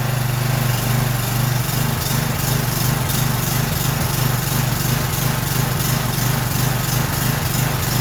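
Craftsman 6.75 horsepower walk-behind lawn mower engine running steadily without its blade.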